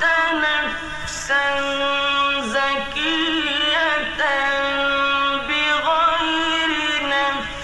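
A man's voice chanting Quran recitation in the melodic mujawwad style, drawing out long held notes with ornamented pitch turns and brief pauses between phrases.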